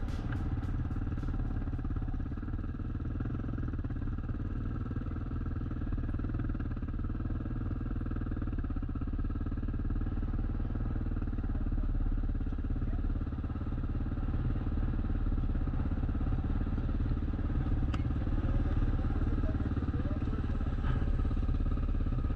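Honda XR400 motorcycle's single-cylinder four-stroke engine running steadily at cruising speed, with a dense low rumble beneath it.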